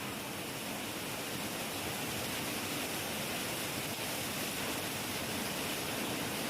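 Heavy rain falling steadily, an even hiss with no breaks or sudden claps.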